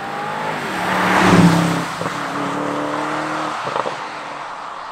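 BMW M850i's twin-turbo V8 accelerating past on a wet road. The engine note climbs to its loudest with tyre hiss about a second and a half in, drops in pitch as the car goes by, and fades as it pulls away, with a short crackle near the end.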